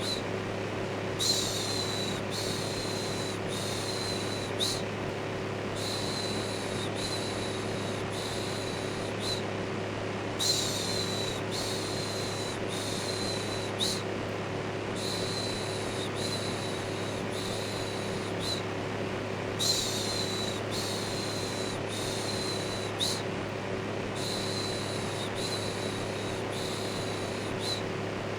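Steady electric fan noise with a low hum, overlaid with a repeated 'shhh' shushing sound. The shushes come about one per second in runs of four or five, with short pauses between runs.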